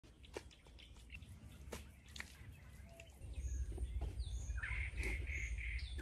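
A bird calling in a short run of four even, repeated high notes about two-thirds of the way in. Under it are faint scattered ticks and taps, and a low rumble that comes in about halfway.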